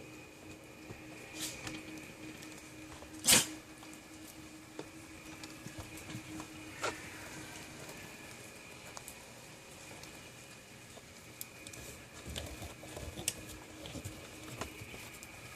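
Scattered light taps and clicks, with one sharp knock about three seconds in, over a faint steady hum.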